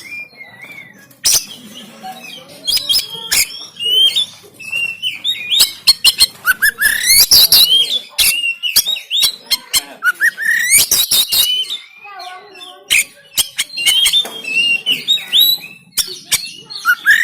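Oriental magpie-robin (kacer) singing a loud, varied song: rising whistled sweeps mixed with harsh, sharp clicking notes, delivered in bursts a few seconds apart.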